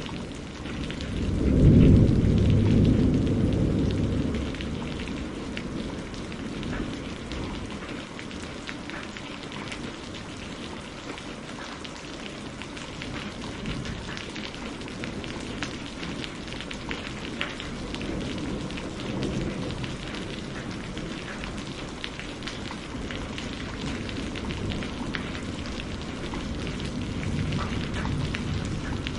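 Steady rain ambience with a low roll of thunder about two seconds in and fainter rumbles later. Fine crackling of burning firewood runs through it.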